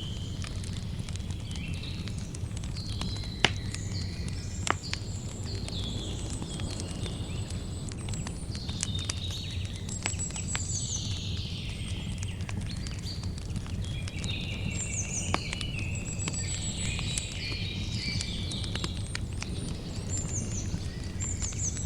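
Campfire crackling, with sharp pops, the loudest a little over three seconds in and another near five seconds, over a low steady rumble. Birds chirp throughout in short, high, falling notes.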